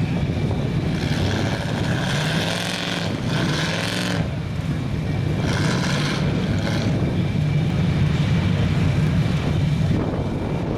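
Big lifted mud-bog truck's engine running steadily under load, with several bursts of higher hissing noise.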